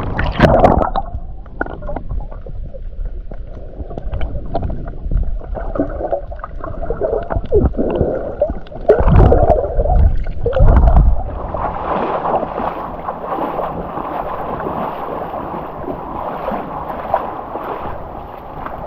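Sea water sloshing and gurgling around a camera held at and under the surface while swimming, muffled, with a few heavier splashes about nine to eleven seconds in. Near the end it opens into steadier splashing water and wind.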